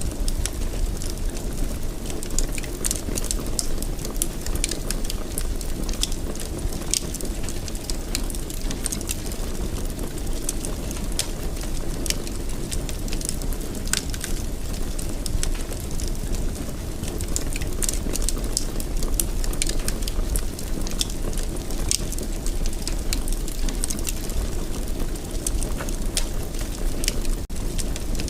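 Wood fire crackling in a fireplace: frequent irregular sharp snaps and pops over a steady low rumble of burning.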